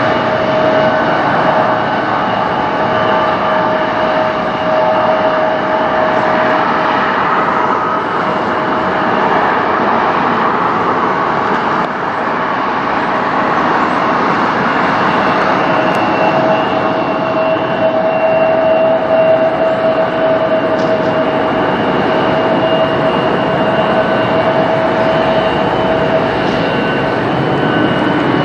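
Jet airliner's engines running, a steady loud rush of noise with a high whine held on several tones throughout.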